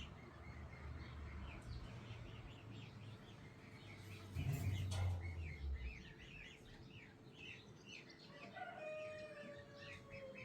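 Small birds chirping continuously, with a rooster crowing once near the end in a long, slightly falling call. About halfway through comes a brief low rumble and knock, the loudest sound in the stretch.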